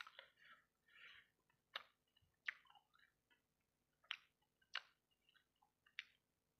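A person chewing fried rice-ball satay in sauce close to the microphone: sharp, crisp clicks about once a second between softer wet mouth sounds.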